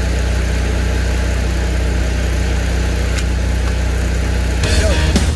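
Yanmar tractor's diesel engine idling, a steady low hum. Near the end a louder, uneven sound breaks in.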